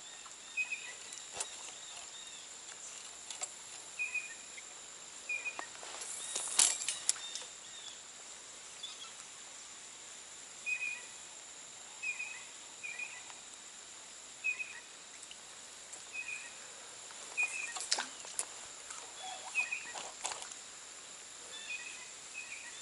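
Outdoor ambience: a small bird repeating short chirps every second or so over a steady high-pitched insect drone, with scattered sharp clicks.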